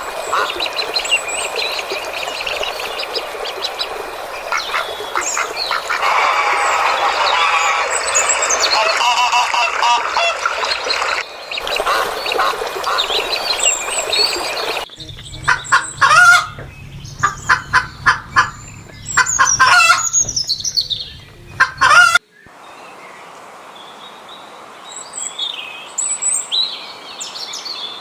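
A flock of domestic waterfowl honking and calling over each other. After abrupt cuts, a run of loud, sharp, repeated bird calls follows, then scattered high chirping.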